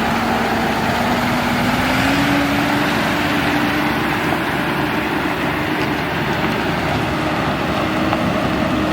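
Heavy diesel engine running steadily under load, with a droning tone that creeps slightly higher in pitch in small steps.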